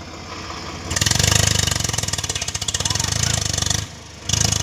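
Swaraj tractor's diesel engine revving hard under load, straining to pull out of sand, with fast even firing pulses. It rises from a lower run about a second in, drops away briefly near the end, then comes back up.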